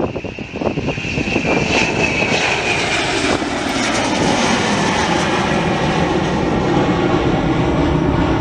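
Airliner engines at close range, the roar building over the first second or two and then holding steady. A high whine fades out about three seconds in.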